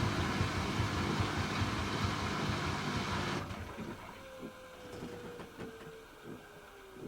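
Hoover H-Wash 300 Plus washing machine in a spin: the drum runs at speed with a dense rushing noise, then the drive cuts off abruptly about halfway through. The drum coasts down with a slowly falling motor whine and soft knocks about twice a second as it slows.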